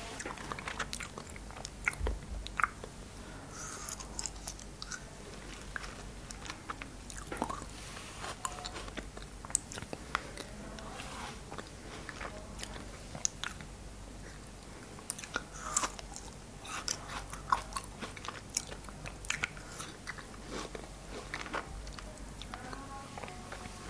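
Close-miked biting and chewing of frozen cherries: many sharp, irregular crunches and crackles, with small clusters of louder bites.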